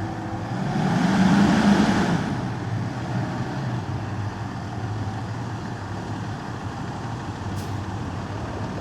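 A fire engine's diesel engine running with a steady low hum. About a second in there is a louder swell of hissing noise lasting about a second.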